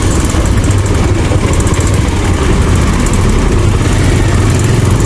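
Motorcycle engine running steadily while riding, a constant low hum under wind noise on the microphone.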